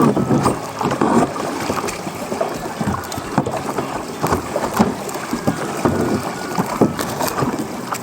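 Water splashing and sloshing around a kayak, irregular and uneven, with wind buffeting the microphone.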